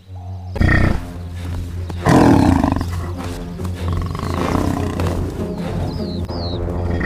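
A big cat roaring over background music with a steady low bass. The loudest roars come about half a second in and again about two seconds in.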